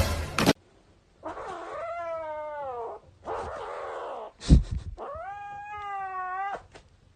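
Domestic cat yowling: two long drawn-out yowls, the first falling in pitch and the second held steady, with a short sharp knock between them about four and a half seconds in.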